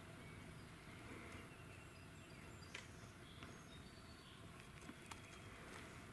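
Near silence, outdoors, with faint short high bird chirps scattered through and a few small clicks.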